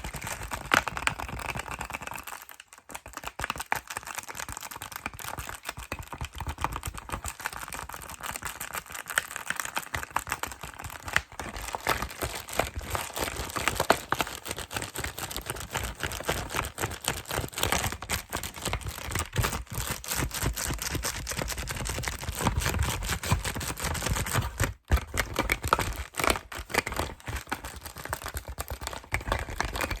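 Fast ASMR handling of plastic and cardboard packaging: rapid tapping, clicking and crinkling in a dense stream, with brief pauses about two and a half seconds in and near the end.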